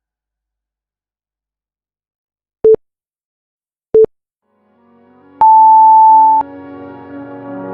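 Interval-timer countdown beeps after near silence: two short beeps at one pitch about a second and a quarter apart, then a longer, higher beep, marking the start of the next work interval. Music fades in under the beeps and carries on after them.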